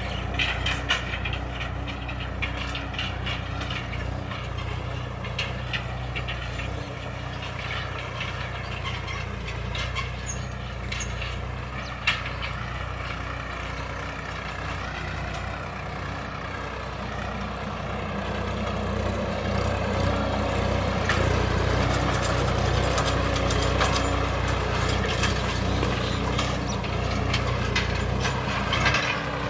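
Swaraj 969 FE tractor's diesel engine running steadily, growing somewhat louder past the middle, with a single sharp click near the middle.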